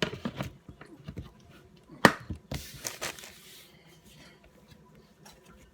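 Hands kneading and pressing soft dough: irregular handling noises with a few knocks, the loudest a sharp knock about two seconds in, followed by a brief rustle.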